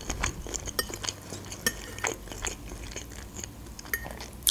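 Close-miked chewing of pasta, with many small wet mouth clicks and smacks. Near the end a metal fork clicks against the ceramic plate as it gathers more pasta.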